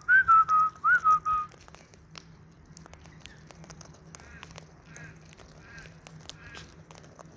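A run of short whistled notes, each flicking up and then held at one pitch, stopping about a second and a half in. After that come scattered small clicks and a few soft chirps from the parrots of a backyard flock.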